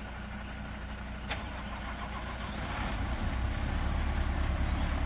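Tanker truck's diesel engine running during a slow manoeuvre, its low rumble growing louder from about halfway through as it takes more throttle. A single sharp click about a second in.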